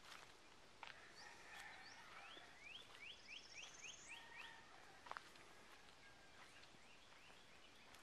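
Faint wild bird song: a quick run of about seven rising whistled notes a few seconds in, with a higher rising trill over it. A few sharp clicks of steps on dry ground, the loudest about five seconds in.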